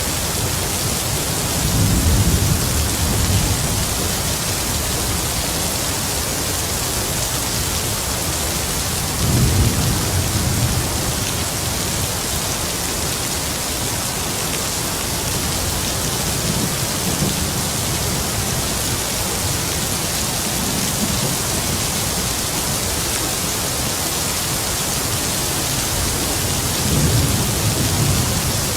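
Heavy rain falling steadily, with distant thunder rumbling low several times beneath it.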